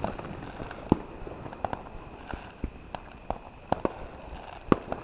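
Fireworks going off in the distance: scattered sharp bangs and pops at irregular intervals over a steady hiss, the loudest about a second in and near the end.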